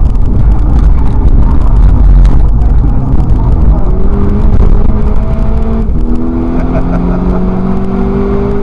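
Volkswagen Scirocco race car's engine heard from inside the cabin at speed. A heavy low rumble comes first, then the engine note climbs under acceleration, drops with an upshift about six seconds in, and climbs again.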